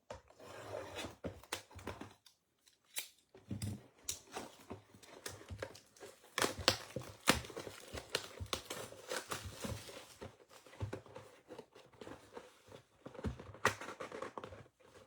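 A sealed trading-card hobby box being unwrapped and opened by hand: plastic wrapping tearing and crinkling, with irregular sharp crackles and the handling of the cardboard box.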